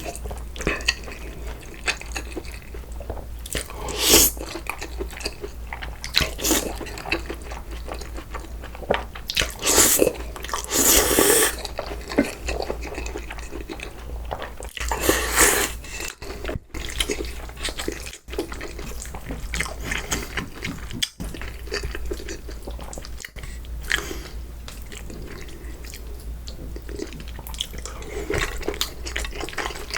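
Water dripping and splashing in a kitchen sink, with irregular short noises from handling food and utensils over a steady low hum.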